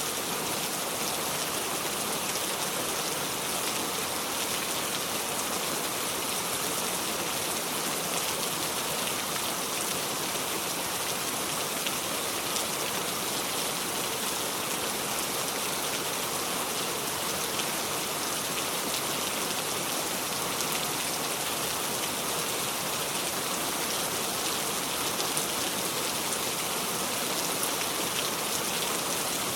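Steady heavy rain: an even hiss of rainfall with a fine patter of drops, unchanging throughout.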